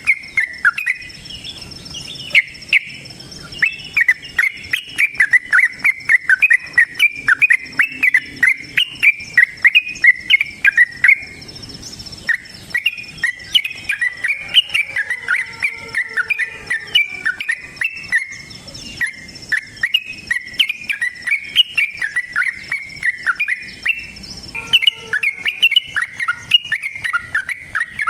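Sooty-headed bulbul (trucukan) singing a long, fast run of chattering notes with hardly a pause. A steady high insect whine sounds behind it and stops near the end.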